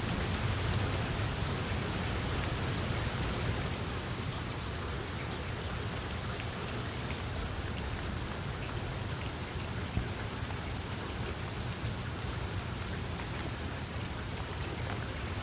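Steady rain falling, with a dense patter of individual drops and one sharper drop tick about ten seconds in.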